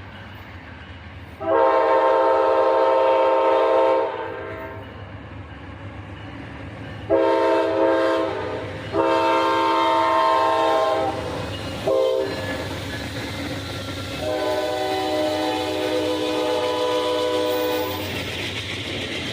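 Amtrak passenger locomotive's multi-chime air horn blowing a run of blasts, several long ones, a short toot and a final long blast, in the long-long-short-long grade-crossing pattern. The train's rumble runs underneath and swells into the rush of the passing train near the end.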